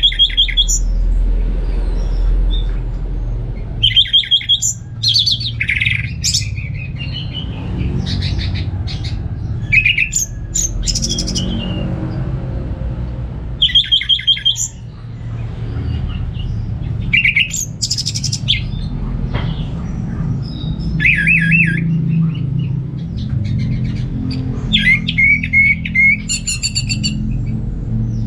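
Orange-headed thrush singing: short phrases of rapid, trilled and varied notes, coming every few seconds, over a steady low rumble.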